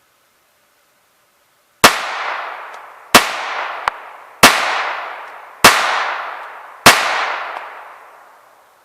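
Walther P22 .22 LR semi-automatic pistol firing five shots of CCI Mini Mag ammunition about a second and a quarter apart, each crack followed by a long echo dying away. The pistol cycles every round without a jam.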